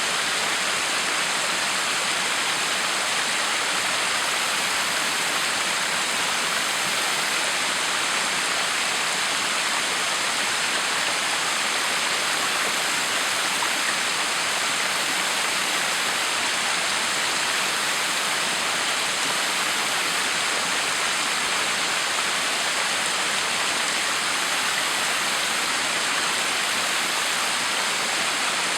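Water pouring down a backyard waterfall, a steady, unbroken rush with no change throughout.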